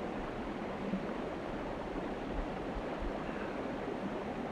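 Steady rushing of a flowing stream, even and unbroken.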